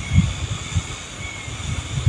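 Uneven low rumbling noise, strongest in the first half second and then easing, with a faint thin high tone in the background.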